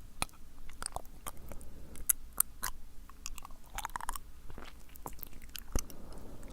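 Wet, sticky mouth sounds close to the microphone: an irregular run of sharp tongue and lip clicks, with a denser smacking cluster about four seconds in.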